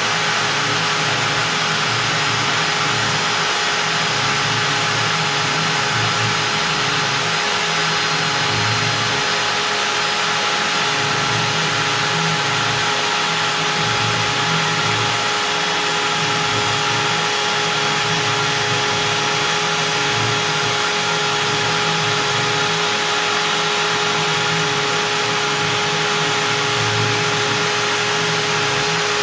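CNC router spindle running at 25,000 rpm with a 4 mm up-down compression bit milling through beech, a steady high whine over a dense rushing noise that wavers slightly as the bit cuts.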